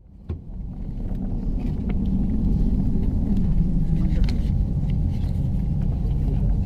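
Steady low rumble of an Airbus A319 passenger cabin before takeoff, fading in at the start, with a few faint light clicks and faint voices.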